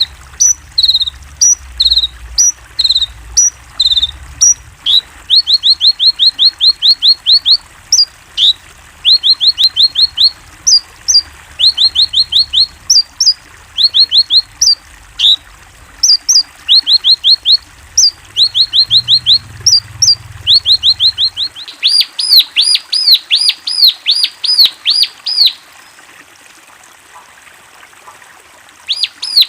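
A konin songbird chirping in quick runs of sharp, high notes, each note dropping in pitch, about five notes a second, with short gaps between the runs. The runs grow louder about three-quarters of the way through, then stop for a few seconds near the end.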